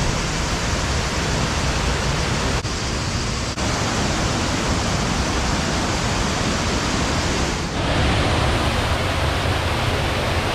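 Waterfall: a loud, steady rush of falling water, with brief dips in level a few times.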